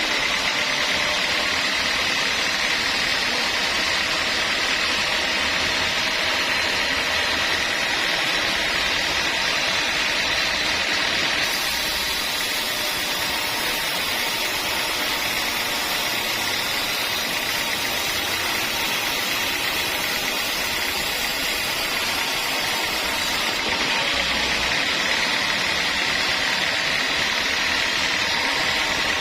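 Sawmill saw and its motor running steadily, a continuous mechanical noise with a steady high whine. The sound shifts slightly about twelve and twenty-four seconds in.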